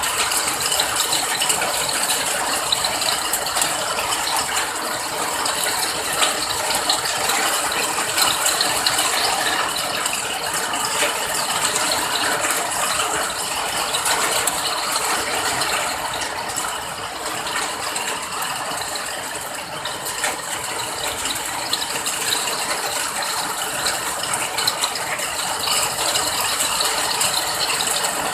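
Steady rain, a dense patter of countless small drop clicks, easing slightly for a few seconds past the middle.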